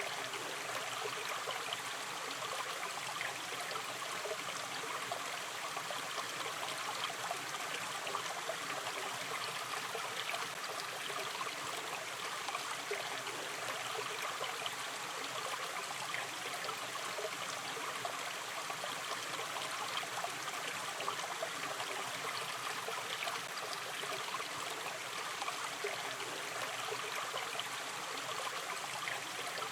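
Gentle river stream flowing over stones, a steady babble of small trickles and gurgles.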